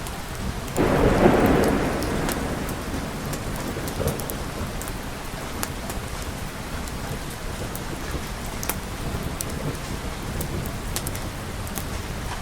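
Steady rain with a clap of thunder about a second in that rumbles and fades away over the next couple of seconds.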